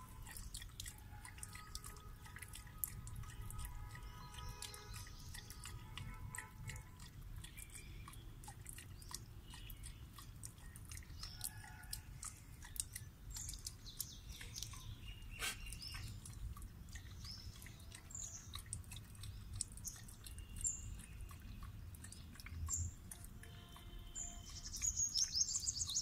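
Small birds chirping repeatedly, busiest and loudest near the end, over a low steady rumble.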